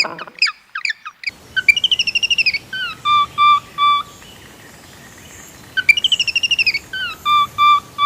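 A songbird singing the same phrase twice, about four seconds apart: a fast warbling trill followed by three short, even whistled notes. A few faint falling chirps come just before the first phrase.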